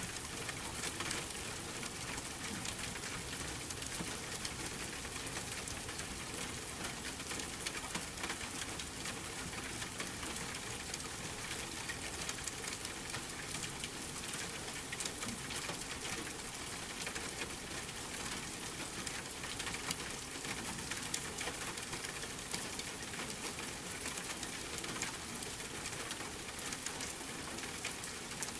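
Steady rain pattering, mixed with a fireplace crackling in small, scattered pops.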